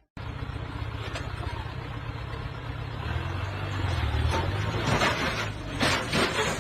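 A vehicle engine running with a steady low rumble that grows stronger about halfway through, with a few louder noisy bursts near the end.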